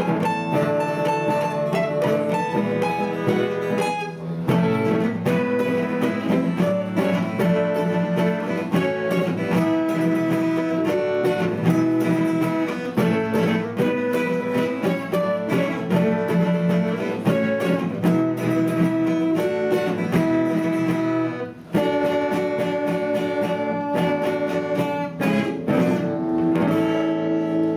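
Two acoustic guitars playing an instrumental passage of a song, plucked and strummed, with a held melody over chords.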